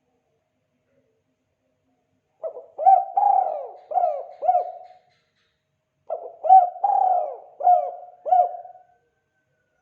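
Spotted dove (tekukur) cooing in its 'kuk 2' call: two phrases of about five coos each. The first begins about two and a half seconds in, the second about six seconds in.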